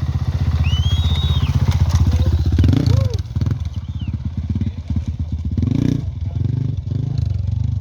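Off-road racing motorcycle engine running close by with a rapid, even firing beat; the level drops a little just after three seconds in. A few high whistle-like notes sound about a second in.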